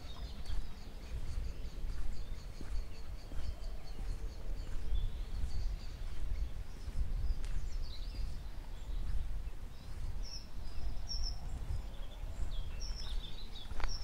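Small birds singing: a long run of quick high notes in the first few seconds, then scattered high chirps near the end, over a steady low rumble of wind buffeting the microphone.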